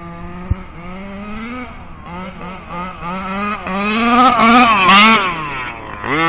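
HPI Baja 5B's small two-stroke engine with a Jet Pro tuned exhaust, revving in repeated throttle bursts as the buggy runs toward and past, loudest about five seconds in, after which the pitch drops away. A short rev starts again at the very end.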